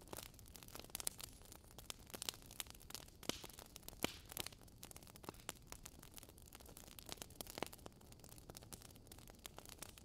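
Large bonfire of branches and timber crackling, with many irregular sharp pops and snaps, the loudest about four seconds in.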